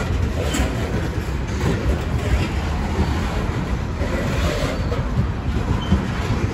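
A train rolling past: a steady rumble of wheels on the rails, with faint clicks from the rail joints.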